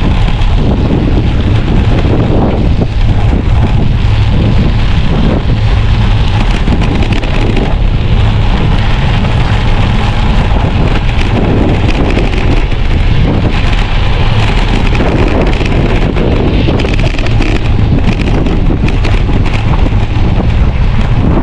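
Loud, steady wind buffeting the microphone of a camera on a moving bicycle, a dense rumbling roar.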